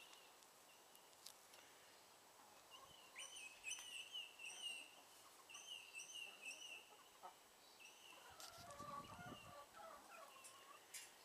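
Faint bird calls from a pen of backyard hens: a run of short, high chirping notes from about three seconds in, then lower clucking calls near the end.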